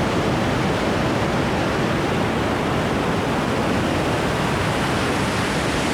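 Large waterfall's water rushing, a loud, steady roar with no break.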